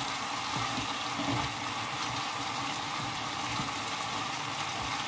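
Sliced bell peppers sizzling in a frying pan with a steady hiss, stirred with a wooden spoon that gives a few faint knocks.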